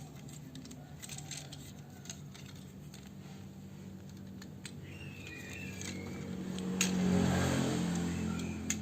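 Small plastic toy parts clicking and rattling as they are handled, over a low hum. About two-thirds of the way in comes a louder swell of mixed noise that fades out near the end.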